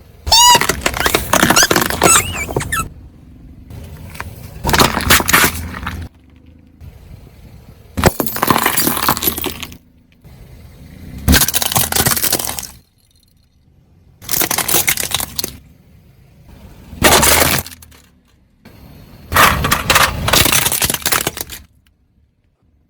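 Plastic toy excavator cracking and crunching under a car tyre, in seven separate bursts of crackling, each a second or two long. The first burst carries a brief squeal.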